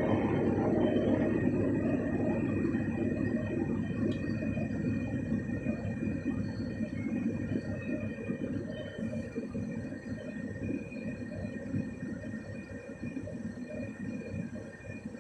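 Empty oil tank cars of a freight train rolling past, a dense rumble and rattle of wheels on rail that slowly fades, with a faint thin high squeal over it.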